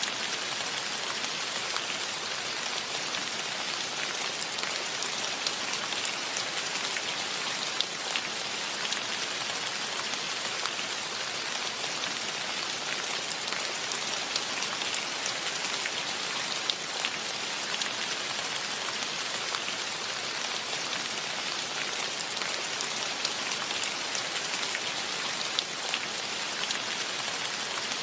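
Steady rain falling, a dense even patter of raindrops on surfaces with scattered close drop clicks.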